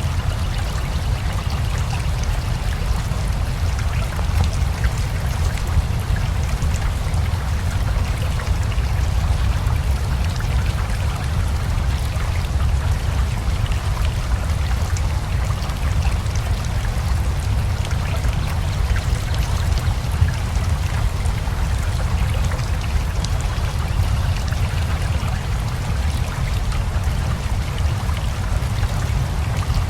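Steady rain together with a rushing river, a deep continuous rumble of flowing water under a fine hiss sprinkled with the ticks of single drops.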